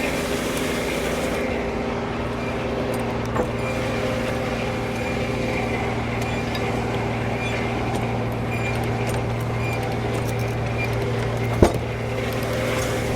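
Frick No. 1 sawmill running at a steady pitch, a constant mechanical hum, with a light click about three seconds in and a sharp knock about eleven and a half seconds in.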